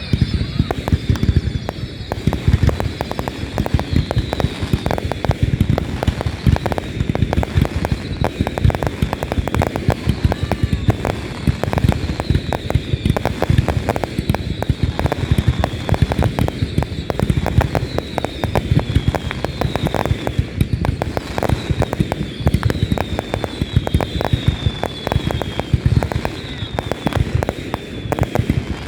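Fireworks going off in a dense, continuous crackle of pops, with short falling whistles recurring throughout.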